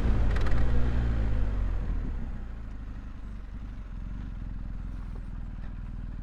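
Motorcycle engine dropping in pitch as the bike slows to a stop, with the wind rush fading over the first couple of seconds. It then settles into a steady idle.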